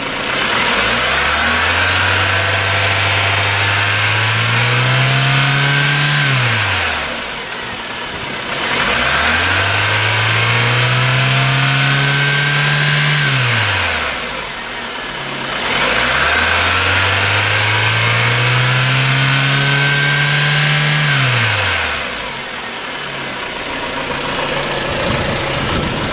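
Peugeot TU5JP4 1.6-litre 16-valve four-cylinder petrol engine revved up three times, each time climbing quickly, then rising slowly for about five seconds at high revs before dropping back to idle. It idles again near the end.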